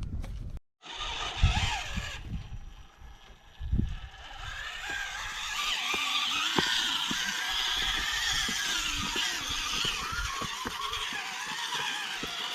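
Scale RC rock crawler's electric motor and geartrain whining steadily as it crawls over rock, with irregular low wind buffeting on the microphone and a couple of dull thumps in the first few seconds.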